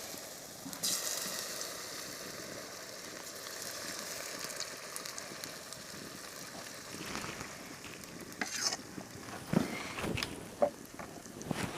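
Rice-flour pitha batter poured onto hot mustard oil in a karahi, sizzling steadily, with a louder surge about a second in. Several sharp knocks and clinks of utensils near the end.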